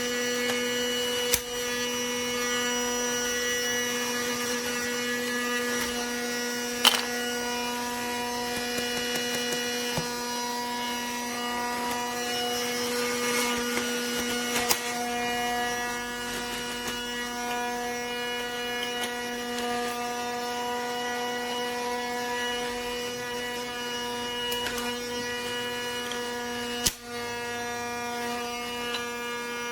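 Small electric motor of a toy cordless vacuum running steadily with an even hum, broken by a few sharp clicks.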